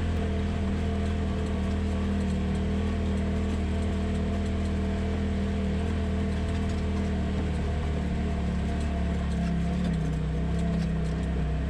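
Polaris RZR side-by-side's engine running at a steady speed while it is driven, with a slight drop and recovery in engine pitch near the end.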